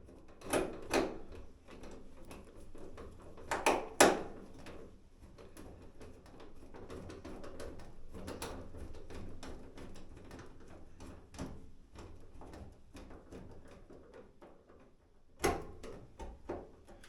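Handling knocks and clatter on a sheet-metal dryer cabinet as screws and the front door are fitted, with a run of small clicks between them. The loudest knocks come about four seconds in, with another cluster near the end.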